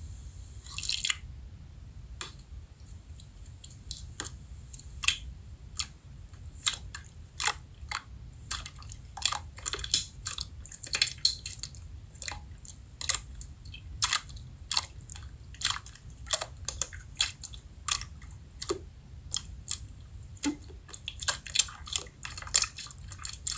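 Slime being squeezed and kneaded by hand, making irregular wet clicks and pops, about two a second.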